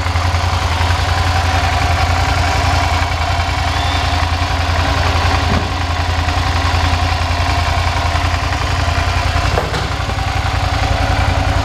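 2005 Suzuki SV650's V-twin engine idling steadily.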